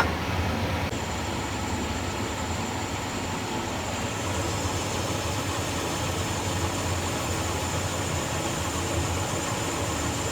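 Metal lathe running steadily with a low hum. A thin, high whine comes in about a second in and holds.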